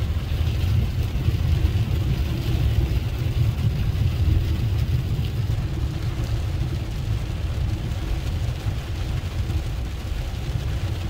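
Pickup truck driving through a flooded street, heard from inside the cab: a steady low engine and road rumble with an even hiss of water under the tyres.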